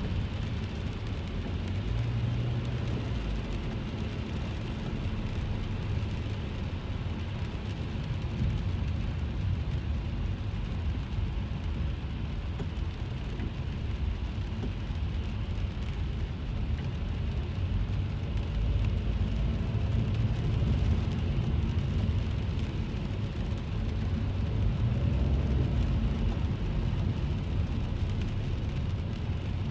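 Inside a car's cabin while driving in the rain: a steady low rumble of the car and tyres on the wet road, with rain hissing on the car.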